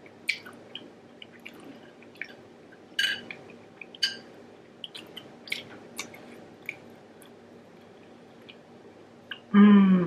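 Close-up wet chewing and mouth smacking of people eating sauce-dipped king crab meat: a scatter of short moist clicks and squelches. Near the end comes a brief hummed "mm".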